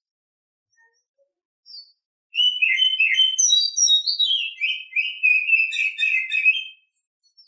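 Female Oriental magpie-robin (kacer) singing in breeding condition: a brief high call, then a continuous run of quick, varied whistled and chattering notes for about four and a half seconds.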